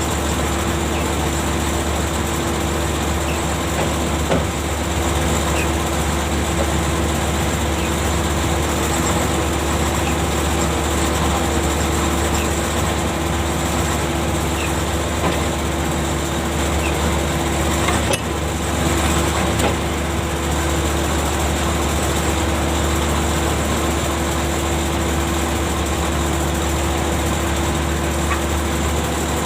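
Ship's deck machinery running steadily: a constant low hum with a steady whine over it, broken by a couple of brief clanks about 4 and 18 seconds in.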